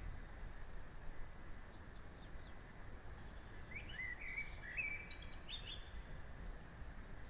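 A songbird singing a short phrase of quick chirps and warbles, about four seconds in, over a steady low outdoor rumble.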